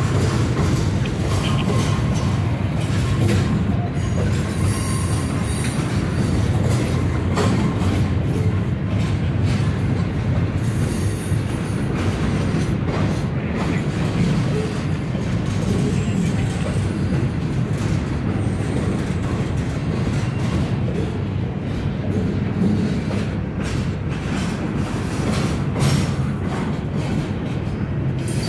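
Norfolk Southern freight train rolling past: a steady heavy rumble of railcars, with irregular clicks of the wheels over rail joints.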